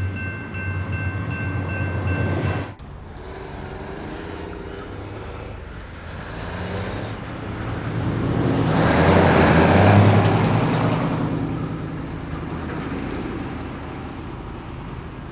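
Steady tones over a low hum that cut off abruptly about three seconds in, then a vehicle passing by, swelling to its loudest around ten seconds in and fading away.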